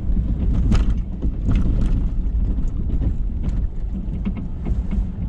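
Ford F-350 pickup on the move, a steady heavy low rumble of engine and road noise, with scattered sharp clicks and knocks over it.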